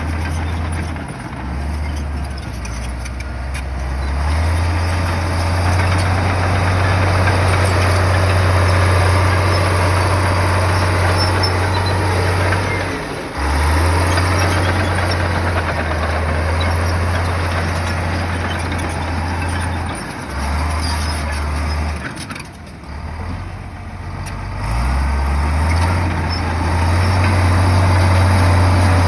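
Heavy diesel engine of an earthmoving machine running under changing load, its low drone stepping up and down in pitch as the revs rise and fall, with a clear drop in revs about two-thirds of the way through.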